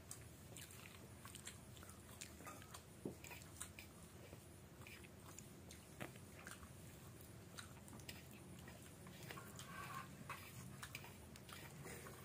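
Faint close-up eating sounds of a person eating rice and dal by hand: chewing, with scattered small clicks and squelches as fingers mix the rice on a steel plate.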